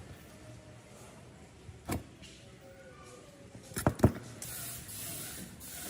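Sharp clicks and knocks of metal parts or a tool being handled, loudest about four seconds in, then an aerosol can spraying in short hissing bursts.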